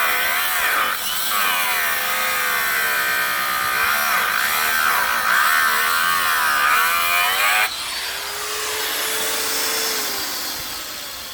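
Small Makita 125 mm angle grinder cutting through a lag bolt, its pitch wavering as the disc bites under load. It is switched off about seven and a half seconds in and winds down with a fading whine.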